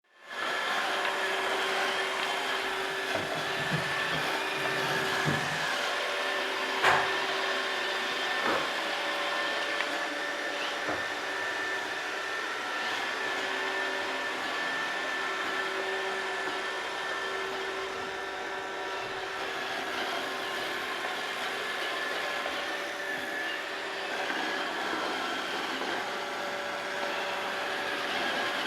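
Roomba robot vacuum running with a steady whirring hum and a few knocks, the loudest about seven seconds in.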